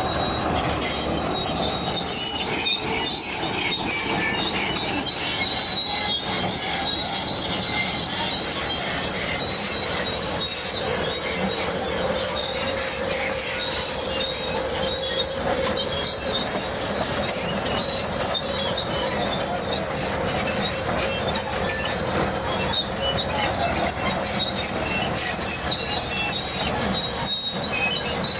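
Bulldozer running with its steel crawler tracks squealing and clattering, a steady high squeal over the machine's continuous noise.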